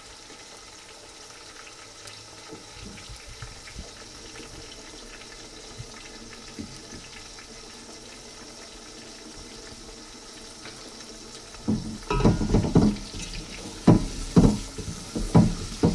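Chicken pieces and onions frying in ghee in an aluminium pot, a steady faint sizzle. About twelve seconds in, a wooden spoon starts stirring vigorously, with loud irregular scrapes and knocks against the pot.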